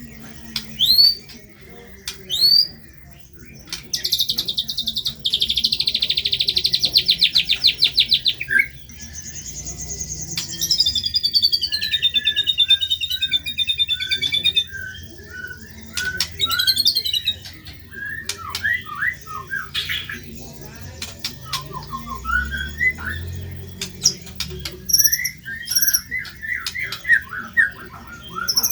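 White-rumped shama (murai batu) singing a varied, fast song of whistled glides, chirps and harsh notes, with a long rapid trill about four seconds in and further rattling phrases through the rest.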